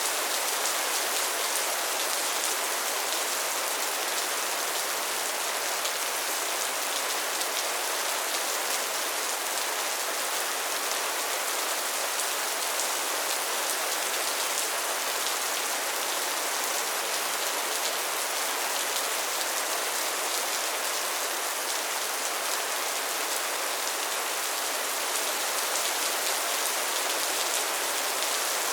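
Steady rain falling, an even hiss of countless drops that neither builds nor fades.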